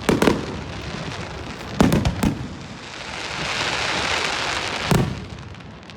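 Fireworks going off: a bang right at the start, two more close together about two seconds in, and another near five seconds. Between them, a hiss swells and fades over about two seconds.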